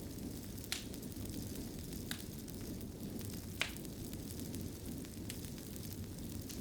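Wood fire burning in a fireplace: a steady low rumble with a few sharp crackling snaps, the loudest about halfway through.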